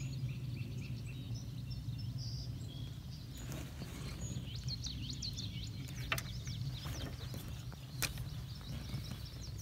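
Birds chirping in quick, high calls over a steady low rumble, with a few sharp clicks in the second half.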